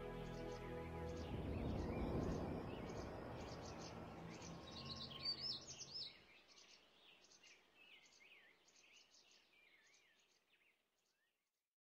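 The last chord of a song fades out, giving way to a soft rushing ambience and birds chirping in quick, high calls. The ambience dies away first and the birdsong fades to silence shortly before the end.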